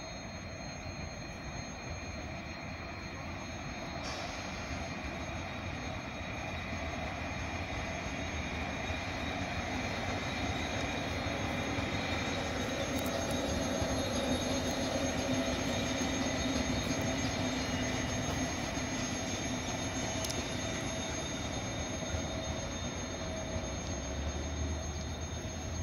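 ETR 243 "Alfa 2" electric regional train passing through on the station tracks. Its running noise swells to a peak about halfway through and then fades, with a faint steady high whine over it.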